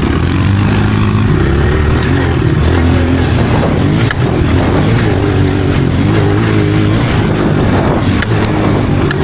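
Dirt bike engine running under load, its pitch rising and falling again and again as the throttle is worked, with a few sharp ticks over it.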